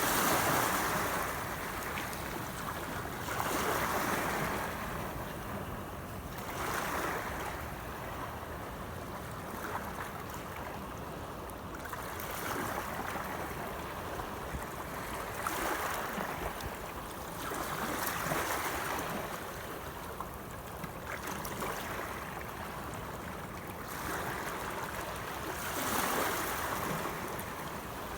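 Sea water washing and splashing in waves, surging every two to three seconds.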